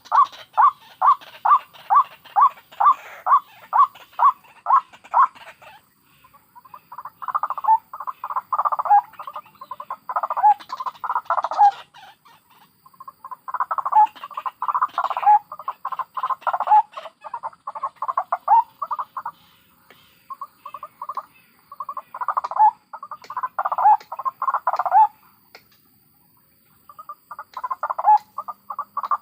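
White-breasted waterhens, adults and chicks, calling. It starts with a run of evenly spaced calls, about three a second, then goes on in bouts of rapid chattering calls with short pauses between them.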